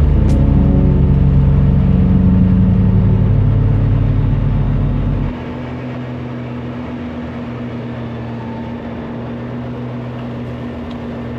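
Zero-turn lawn mower's diesel engine running steadily. It is loud for about the first five seconds, then drops suddenly to a lower, steady level.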